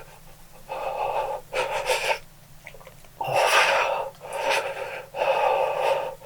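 A man breathing hard through his mouth, about five loud hissing breaths in and out, as he reacts to the burn of an extremely hot chili chip.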